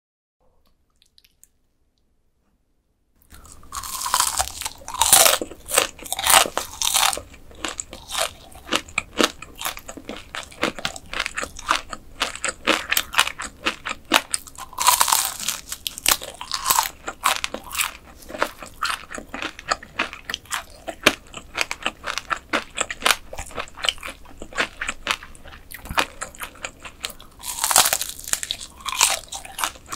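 Near silence, then from about three seconds in, close-miked crunching bites and chewing of mantis shrimp, with the loudest crunches at the first bites, again about halfway through and near the end.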